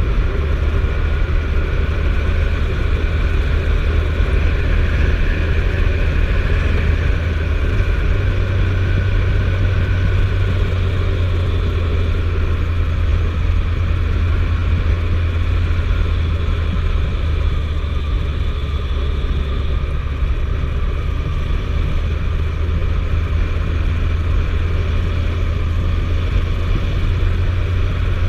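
Suzuki GSF1250S Bandit's inline-four engine running steadily at road speed, a low, even drone with road and wind noise over it.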